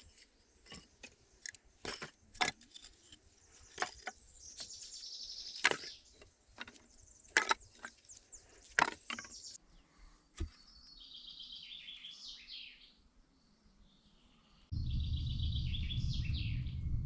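Birds singing in short repeated phrases. In the first half there are many sharp clicks and knocks, and near the end a loud low rumble starts abruptly.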